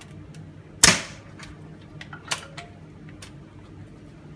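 SRS airsoft bolt-action rifle firing one sharp shot about a second in, followed by a smaller click about a second and a half later and faint clicks of handling.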